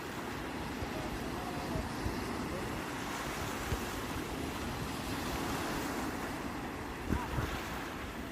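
Sea waves washing onto the shore in a steady surf that swells gently and ebbs. A few low thumps of wind on the microphone come near the end.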